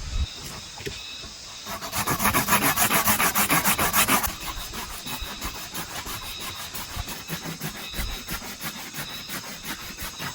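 Rapid, rhythmic rasping strokes of a blade working bamboo. The strokes are loudest for about two seconds, starting near the two-second mark, then go on more lightly.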